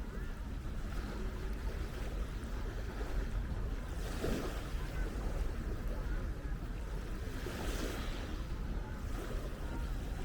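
Wind buffeting the microphone over small waves washing onto a sandy shore. The wash swells twice, about four and eight seconds in.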